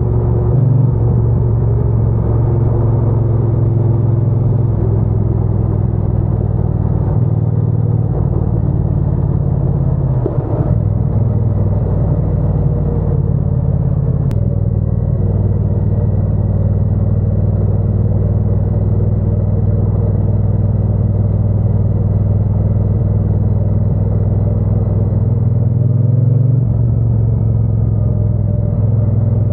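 Triumph Bonneville T120's 1200 cc parallel-twin engine and exhaust running steadily on the move, a deep low rumble with a brief dip in the note about ten seconds in.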